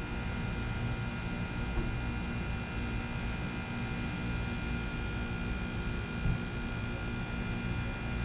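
Trane XR13 heat pump outdoor unit running: a steady machine hum with several held tones over an even hiss.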